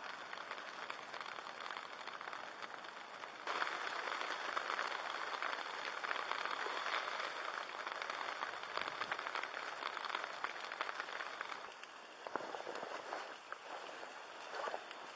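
Shio-koji-coated meat sizzling and crackling in hot fat. The sizzle jumps louder about three and a half seconds in, then eases near the end into scattered pops.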